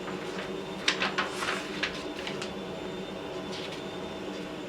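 Soft rustling and handling of a picture book's paper pages, a few short strokes, over a steady low room hum.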